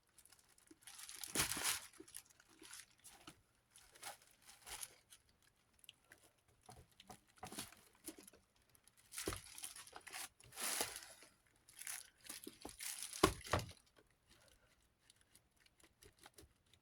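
Irregular scratchy rubbing and scraping in separate strokes, as paint splatter is worked off the surface of a Lasko Galaxy desk fan near its logo, with some crinkling.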